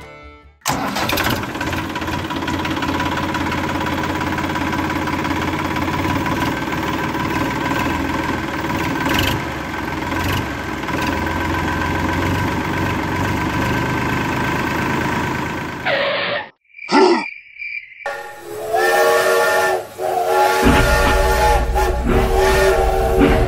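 A steady whirring, hissing mechanical noise for about fifteen seconds, then a few short sounds, then the repeated electronic whistle of a battery-powered toy train over a low hum.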